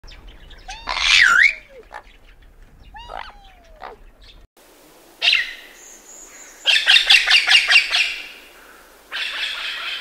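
An amazon parrot gives two harsh squawks, each with a falling tail. Then a grey crowned crane calls: one call, a quick run of about seven pulsed honks a second, and a longer call near the end.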